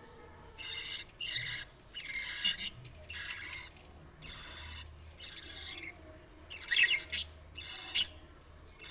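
Budgerigar chicks giving harsh food-begging squawks while being fed, a rapid series of about a dozen short calls.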